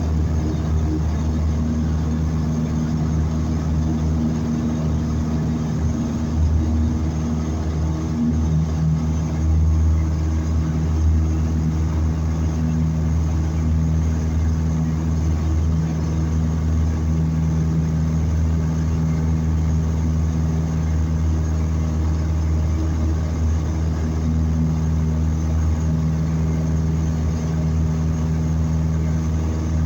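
A small airplane's engine and propeller drone steadily, with a slight swell in level for a few seconds partway through.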